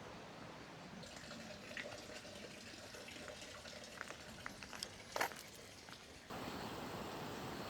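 Faint trickling water with scattered small drips and clicks. About six seconds in it changes suddenly to a steadier, slightly louder hiss.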